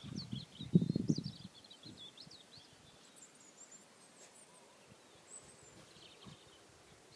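Small birds chirping and twittering in short, quickly wavering high calls, over low muffled thumps in the first second and a half.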